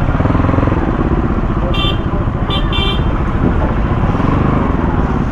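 Kawasaki Z900's inline-four engine and exhaust running steadily, loud and rumbling. Two short horn toots cut in about two and two-and-a-half seconds in.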